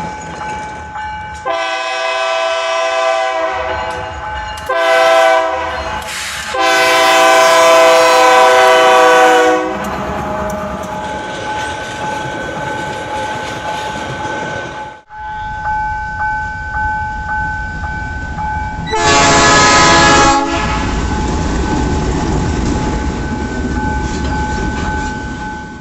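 Freight locomotive's air horn sounding for a level crossing: three blasts in the first ten seconds, the third the longest and loudest, then the train rolling past with wheels on rail, and one more short blast about twenty seconds in.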